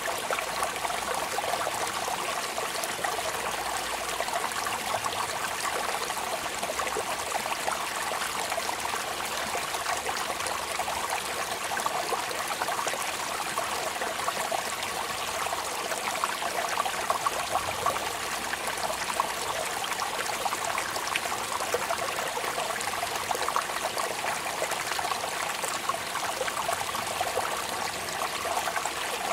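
Steady rain falling, a continuous hiss with a dense patter of individual drops.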